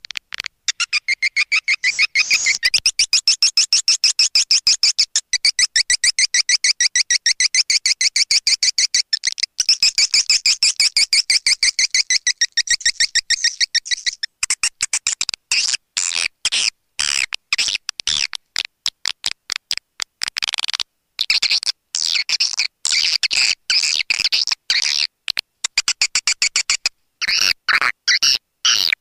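Swiftlet call recording: a fast, high-pitched twittering of swiftlets, the kind of call played to lure swiftlets into a nesting house. The chirps run on without a break for about the first half, then come in shorter bursts with brief gaps.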